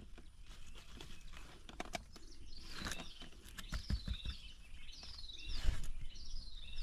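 Nestling birds chirping: a series of short, high, falling peeps, about one a second, starting a couple of seconds in. A few low thumps break in partway through.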